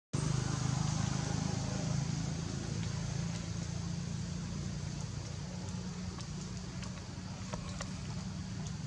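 A motor vehicle's engine running steadily, a constant low hum with a few faint clicks over it.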